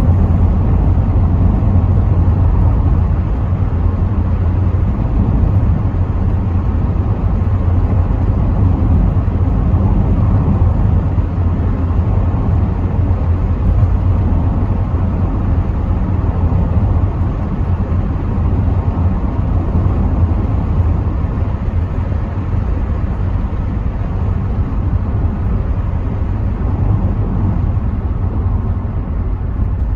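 Rover 75 V6 estate being driven at steady speed, heard from inside: a constant low rumble of engine, tyres and wind noise through the partly open windows.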